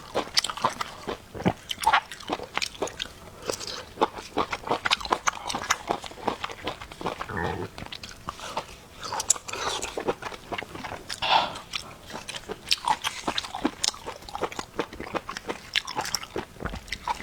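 A person biting and chewing food close to the microphone: a dense, irregular run of crunchy mouth clicks.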